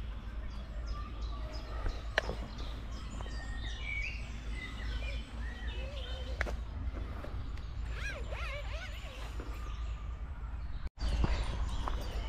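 Songbirds chirping and singing, with many short calls and some arched whistles, over a steady low rumble. The sound cuts out abruptly for a moment about eleven seconds in.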